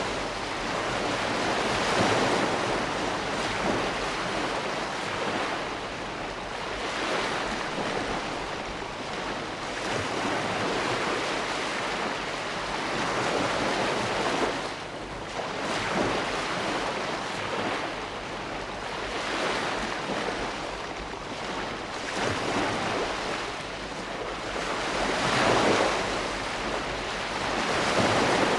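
Ocean waves breaking on a shore in a continuous wash of surf, swelling and ebbing every few seconds, with stronger surges about two seconds in, around the middle and near the end.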